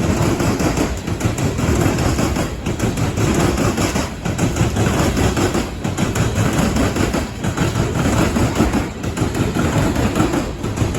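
Coal train's hopper cars rolling past on steel wheels, a steady rumble that dips briefly about every one and a half seconds as each car goes by.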